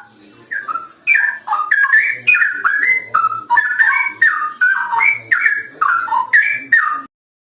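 Straw-headed bulbul (cucak rowo) singing a fast, unbroken run of loud whistled notes that swoop up and down in pitch, starting about half a second in and cutting off abruptly near the end.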